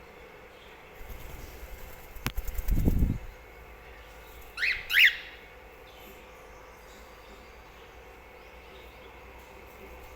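A pet bird flutters close by, a rustling flutter ending in a loud low thump, then gives two quick sweeping chirps about halfway through.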